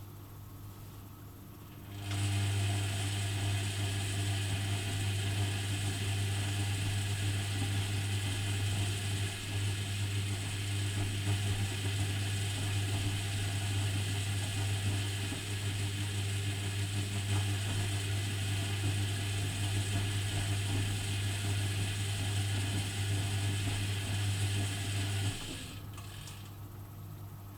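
Privileg Dynamic 4612 washing machine's motor turning the drum during the wash: a steady mechanical hum with tumbling noise that starts about two seconds in and stops near the end, with the quieter pause between drum turns on either side.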